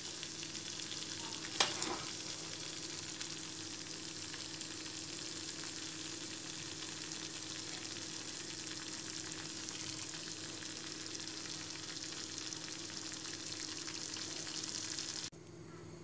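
Muhlama of melted cheese, butter and cornmeal sizzling in a steel pot while being stirred with a metal spoon: a steady frying hiss. A single sharp knock comes about one and a half seconds in, and the hiss cuts off abruptly near the end.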